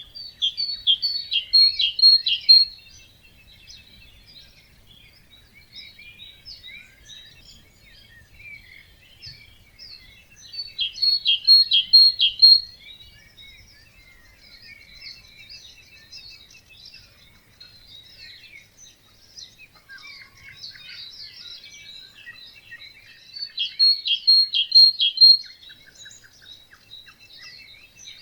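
Dawn chorus of songbirds: one bird sings a loud song of rapid repeated notes three times, about 11 seconds apart, over steady quieter chirping and song from other birds.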